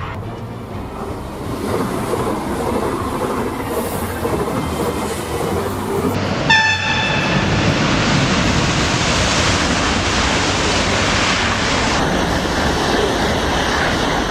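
High-speed train passing at speed: a steady rush of rail and air noise that grows fuller about six seconds in, where the train sounds a short horn blast, then stays loud as the train goes by.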